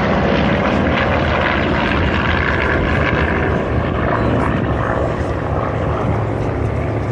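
Piston-engined propeller warplane flying by, its engine drone loud and steady.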